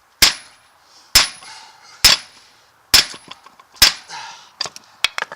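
Hammer striking a truck driveshaft yoke to drive out a U-joint bearing cap: five sharp metal blows about a second apart, each with a brief high ring, then a few lighter taps near the end.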